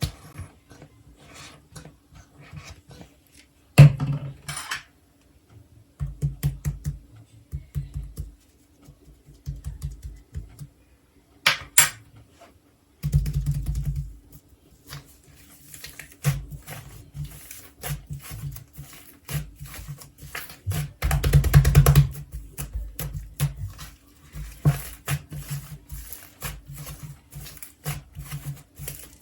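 Slime being squeezed, poked and stretched by hand, making irregular sticky clicks, pops and crackles, with a few louder squishy patches.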